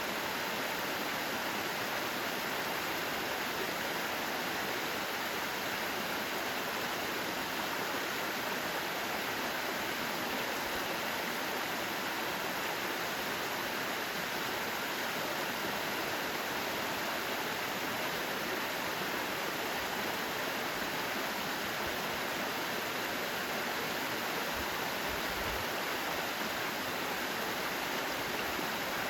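Mountain valley stream rushing over rocks: a steady, even hiss of flowing water that does not change.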